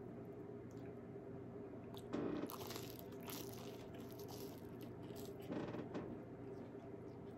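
A man biting and chewing a piece of food taken from a bowl of chicken soup, close to the microphone, with two louder bursts of eating noise, about two seconds in and again about five and a half seconds in.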